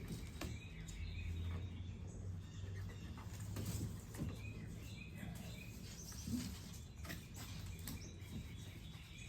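Faint bird chirps over a low steady hum, with scattered light clicks and knocks from handwork on the tailgate seal.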